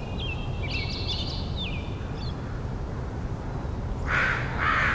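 Small birds chirping and whistling in short high notes over a steady low background rumble, then three louder rough calls near the end.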